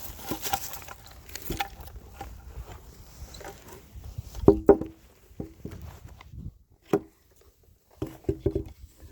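Knocks, clatter and scraping of a fallen sign being picked up and set back in place. The loudest is a cluster of sharp knocks about halfway through.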